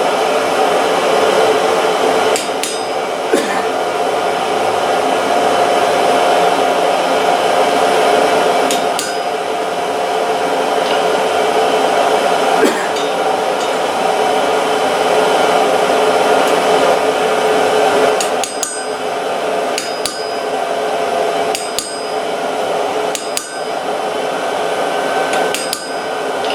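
Steady roar of a blown forge or furnace fire, with sharp metallic strikes and clinks at irregular intervals, more often in the second half.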